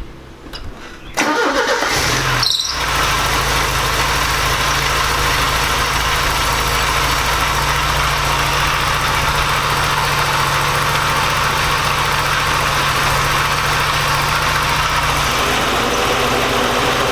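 Porsche 944's four-cylinder engine starting about a second in and settling into a steady idle. It runs on all cylinders now that the exhaust gasket is fixed; the owner says it no longer sounds like it is running on three cylinders.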